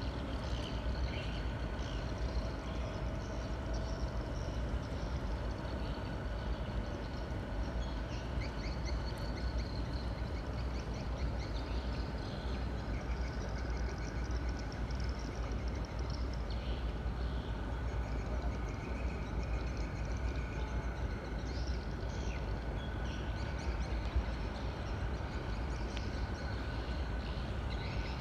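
Steady low drone of a tugboat's engine while it tows a barge, with a faint steady whine above it. Birds call briefly now and then.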